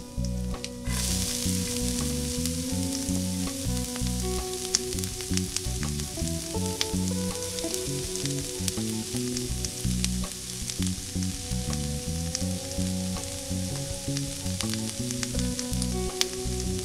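Chopped onion and tomato sizzling in a tiny iron kadai over a small flame, with scattered clicks and scrapes of a small spoon stirring against the pan. The sizzle grows louder about a second in.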